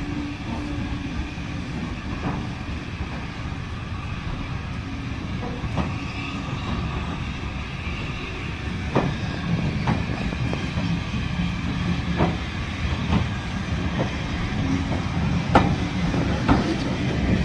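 Steam-hauled heritage railway coaches rolling slowly along the platform: a steady low rumble of wheels on rail, with irregular sharp clicks as the wheels cross rail joints. The clicks come more often and louder in the second half as a coach end draws close.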